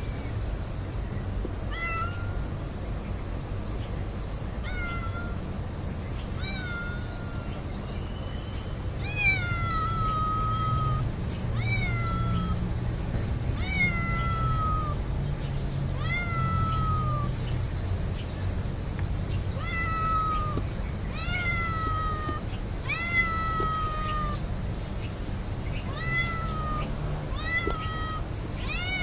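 A cat meowing over and over, roughly one drawn-out, high-pitched meow every two seconds, each rising and then sliding down in pitch; the meows grow louder from about nine seconds in.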